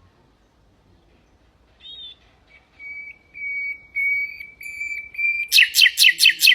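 Nightingale singing: after a short pause, a phrase of about six long, level whistled notes, then a loud run of quick, sharp notes near the end.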